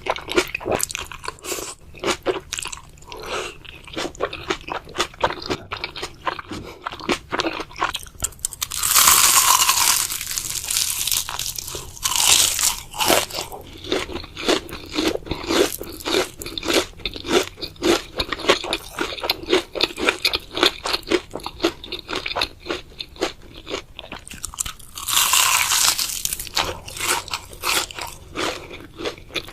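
A person chewing and biting noodles and chicken: a fast run of wet crunching chews, with two longer, louder rushing sounds, one about nine seconds in and one about twenty-five seconds in.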